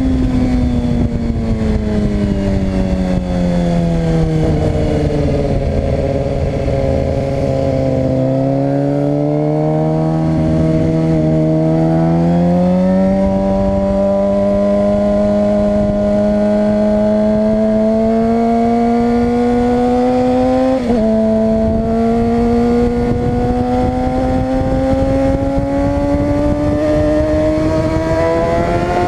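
Suzuki GSX-R 600 inline-four sport-bike engine under way. The revs fall over the first several seconds as it slows, then climb steadily and slowly for the rest, with a brief dip about two-thirds of the way through.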